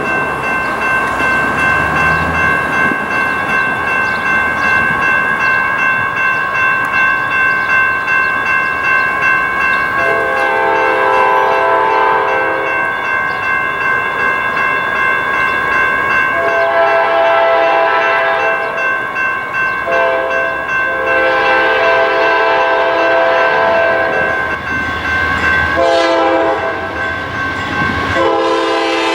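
Lead locomotive of a CSX freight train (a GE C40-8) sounding its chime horn in a series of long blasts with a short one among them, the grade-crossing signal. Under it run the steady ringing of the crossing bells and the rumble of the passing train.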